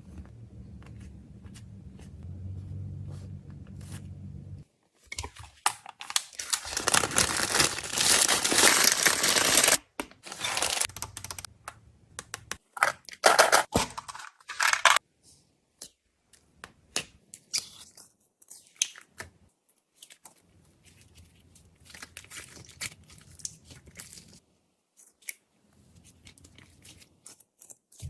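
Plastic wrappers being torn open and crinkled, with sharp crackles and then scattered light clicks and taps as items are handled. The crinkling is loudest and densest for a few seconds near the start, then thins out to occasional clicks.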